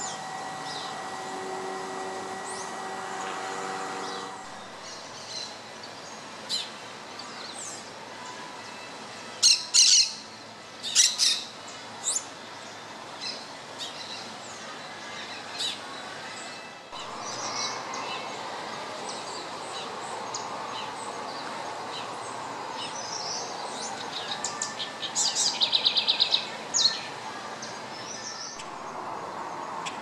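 Wild birds calling with short, sharp high chirps, the loudest a cluster about ten seconds in, and a quick trill of rapidly repeated notes near the end. A faint steady hum sits under the first few seconds.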